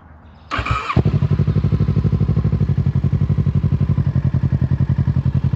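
Kawasaki Z650 motorcycle engine being started: a brief whirr of the electric starter cranking, then the engine catches about a second in and settles into a steady, rapidly pulsing idle.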